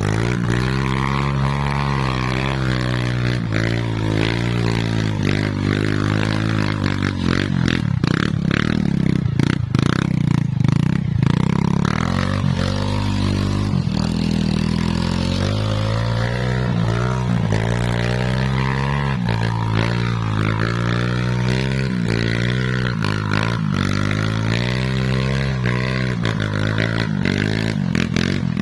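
Two-stroke chainsaw running hard while cutting teak wood, its engine pitch repeatedly dipping and recovering as the chain loads up, with a few sharp knocks around ten seconds in.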